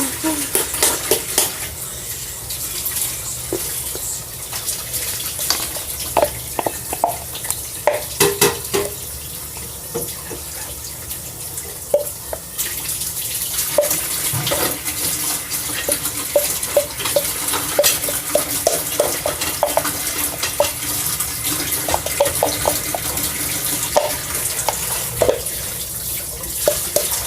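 Slime being stirred and mixed in a container, with scattered clicks and taps, over a steady hiss of running water.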